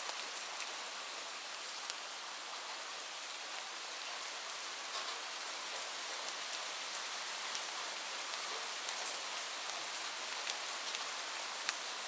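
Steady rain falling, a constant hiss with scattered sharper drop ticks here and there.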